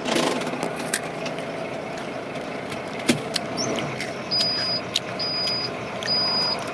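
Truck running steadily with a few sharp clicks. A bit past the middle, a high beep starts repeating about once a second.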